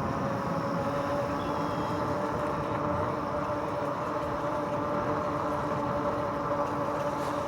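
RadRover 5 e-bike's rear hub motor whining steadily while riding, over a steady rush of tyre and wind noise.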